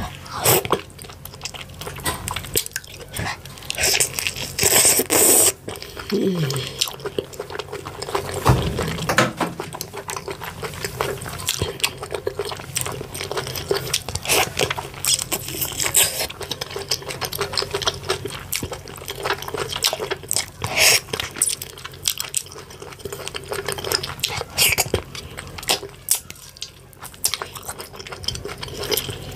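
Close-miked eating sounds: fufu with slimy ogbono and ewedu soups being chewed, smacked and swallowed, a steady run of wet, sticky clicks and squelches.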